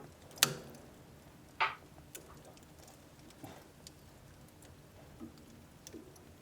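Wood fire crackling in a wood-burning stove. A sharp, loud pop comes about half a second in and another about a second later, with scattered fainter ticks between them.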